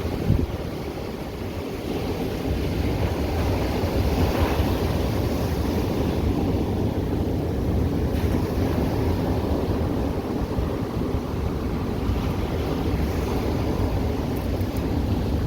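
Ocean surf washing onto the beach, with a wave breaking about four seconds in, and wind buffeting the microphone with a low rumble.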